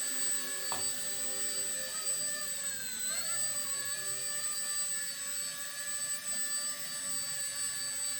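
Micro RC helicopter (F150BL V3 Airwolf) flying, its brushless motor and rotors giving a steady high-pitched whine. The pitch dips briefly and recovers about three seconds in, as the throttle or load changes. One short click comes just under a second in.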